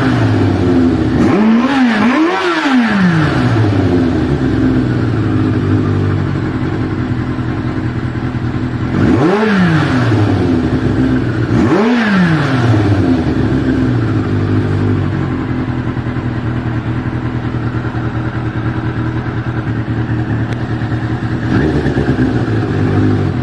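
Motorcycle engine idling, blipped four times in two pairs, about two seconds in and again around ten seconds in, its pitch rising sharply and falling back each time before it settles to a steady idle.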